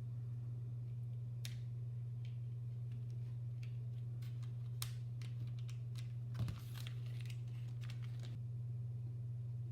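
Scattered light clicks and taps from hands handling a mechanical keyboard's parts, with one louder knock about six and a half seconds in, over a steady low hum.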